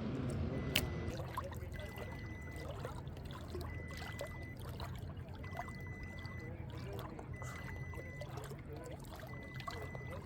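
Water trickling and lapping, with small splashes and ticks. Under it runs a steady low hum, and a faint high beep repeats about every two seconds.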